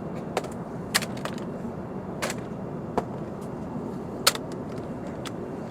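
Steady drone of an Airbus A350-900 cabin in flight, with about half a dozen sharp clicks and knocks from a seatback tray table being folded and slid back and forth, the loudest a little past four seconds in.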